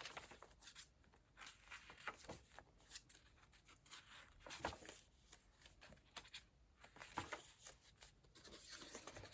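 Faint rustling and soft taps of heavy collaged paper pages and fabric being handled and turned in a handmade journal.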